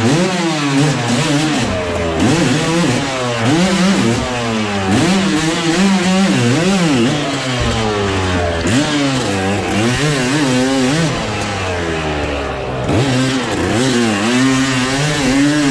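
Dirt bike engine revving hard as it is ridden around, its pitch rising and falling again and again.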